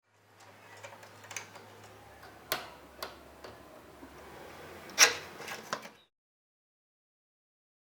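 Scattered small clicks and knocks of metal typewriter parts being handled, with one sharper knock about five seconds in; the sound stops abruptly about six seconds in.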